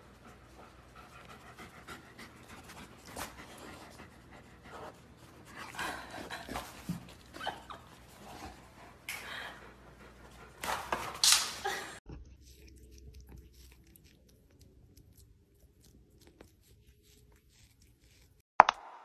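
A dog panting hard, in uneven breathy bursts with a louder burst about eleven seconds in. It cuts off suddenly about twelve seconds in, leaving a much quieter stretch with faint ticks, and sharp clicks near the end.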